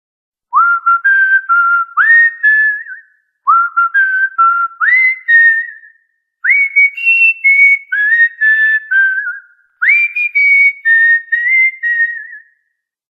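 Cockatiel whistling a tune: four short phrases, each opening with a quick upward swoop followed by a run of short stepped notes.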